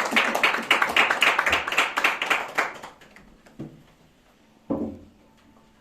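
Audience applause that dies away about three seconds in, followed by two brief thuds, the second louder.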